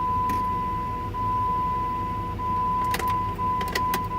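A steady high electronic warning tone from the Jeep's dash, breaking briefly about every second and a quarter, over a low steady rumble. A few sharp clicks come near the end.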